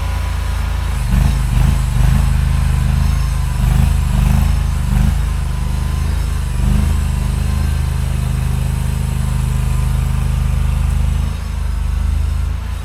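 Mini skid steer's engine running, swelling in loudness several times in the first five seconds or so and again around seven seconds in, then holding steady until it drops back near the end.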